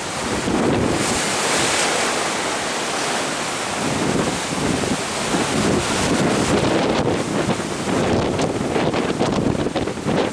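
Wind buffeting the microphone in surging gusts over the rush of sea water alongside a moving ship, with crackling gusts in the second half.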